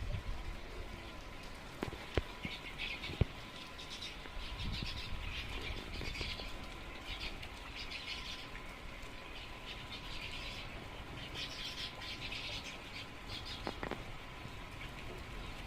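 Small birds chirping in repeated bursts of short, high calls throughout, with a few sharp clicks or knocks in the first few seconds and another near the end.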